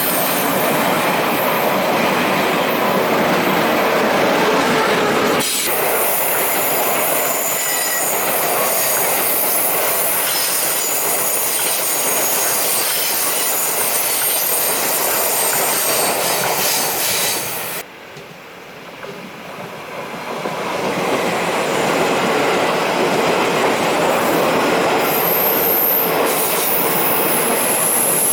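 Train passing close by on the rails, a loud steady rumble of wheels on track with high-pitched wheel squeal. About two thirds of the way through it drops away suddenly, then builds back up a few seconds later as rail noise returns.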